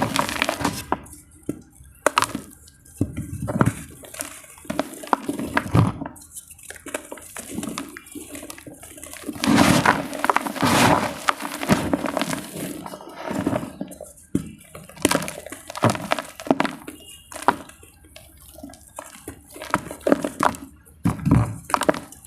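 Dry multani mitti (Fuller's earth clay) crumbling and crunching in irregular bursts of crackles and clicks.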